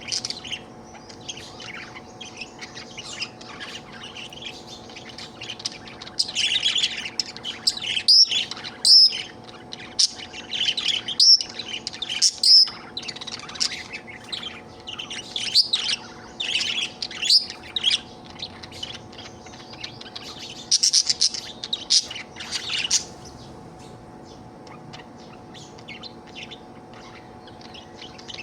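Pet budgerigar chirping in quick runs of short, high calls, louder through the middle and quieter near the end, over a faint steady hum.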